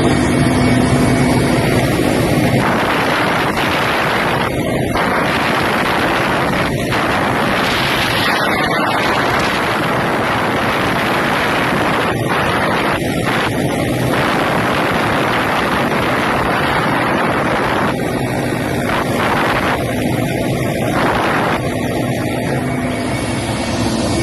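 Loud, steady helicopter noise mixed with heavy wind buffeting on the microphone. A low engine hum is heard in the first couple of seconds and faintly again later.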